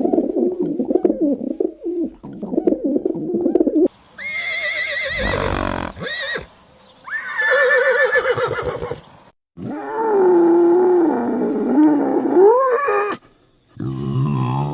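A run of separate animal calls, each one to four seconds long. It opens with a low call, then come two higher, wavering calls, then a long call whose pitch climbs near its end, and a short low call near the end.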